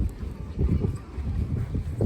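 Wind buffeting the microphone, an irregular gusty low rumble.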